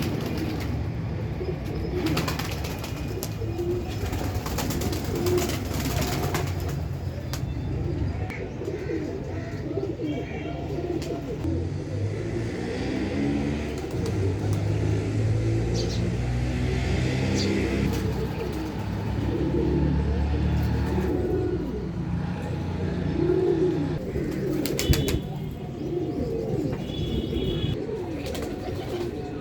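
Pigeons or doves cooing repeatedly, with occasional higher chirps from small birds over a low background rumble. A single sharp click comes near the end.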